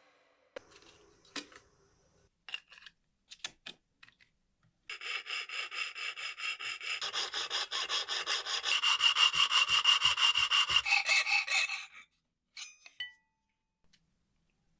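Rapid back-and-forth abrasive rubbing strokes worked by hand on a part, about four strokes a second. They start about five seconds in, grow louder, and stop abruptly about seven seconds later, with a few light clicks before and after.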